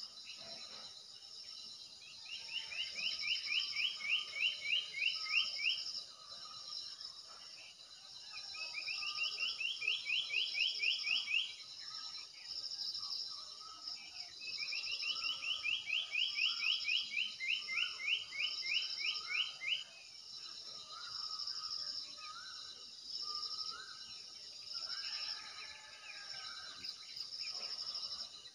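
Birds singing: a fast rattling trill comes in repeated bouts of two to five seconds, with softer scattered chirps, over a steady high pulsing buzz.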